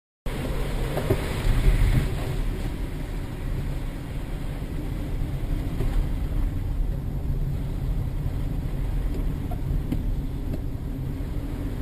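A car driving: a steady low engine and road rumble, louder for a moment between one and two seconds in.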